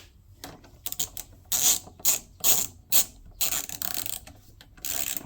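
Ratchet wrench with a 10mm socket clicking in a series of short strokes, about two a second, as nuts are run down and tightened.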